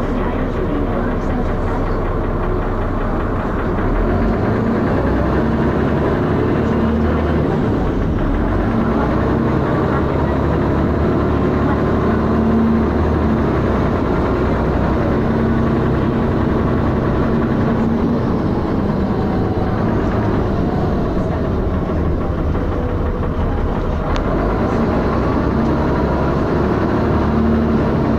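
Dennis Arrow double-decker bus engine running under way, its note rising and falling several times as it pulls away and eases off, with the loud knocking and heavy thrash this bus is known for.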